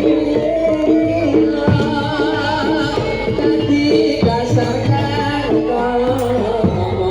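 Jaranan dor dance music played live: drums beating a steady rhythm under a stepping pitched melody, with a wavering high melodic line entering about two seconds in.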